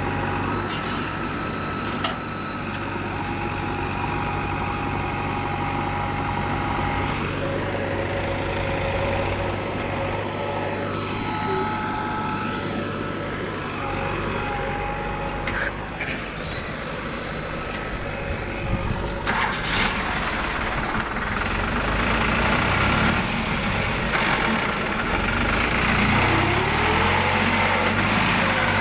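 Heavy engine of a JCB digger or tractor running steadily, with a few sharp knocks and clanks about two seconds in and again past the halfway point.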